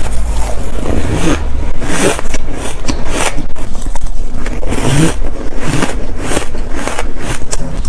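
Ice being bitten and crunched close to the microphone: a loud, rapid run of crisp crunches, several a second.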